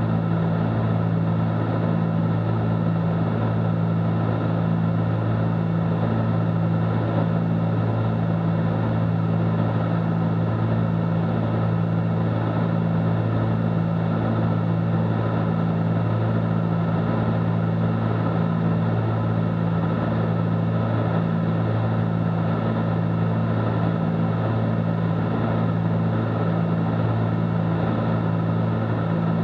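Cessna 310Q twin six-cylinder piston engines and propellers droning steadily in flight, heard inside the cabin.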